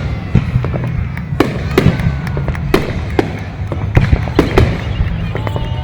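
Fireworks display: aerial shells bursting in quick succession, about eight sharp bangs in a few seconds over a steady low rumble.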